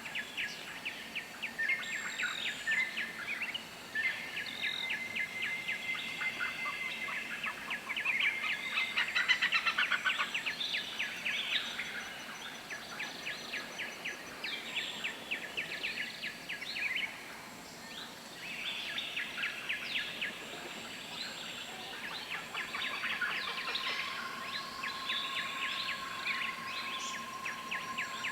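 Wild birds calling in a dense chorus of rapid, high chirps, thinning briefly past the middle. A long steady tone sets in about three-quarters of the way through.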